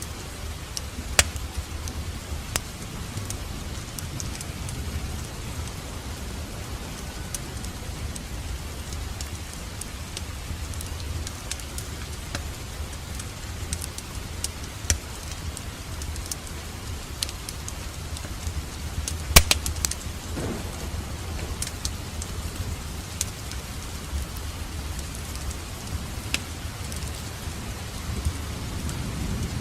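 Wood fire crackling in a fireplace: a steady low rumble of flames with scattered sharp pops and snaps, one louder pop about two-thirds of the way through.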